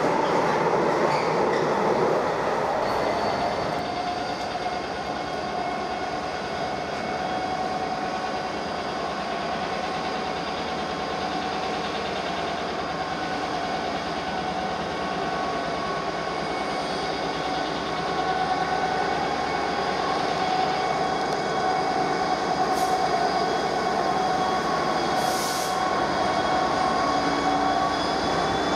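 A train running through a station, with several steady whining tones over a rolling rumble, the tones creeping up in pitch toward the end. A brief hiss comes about 25 seconds in.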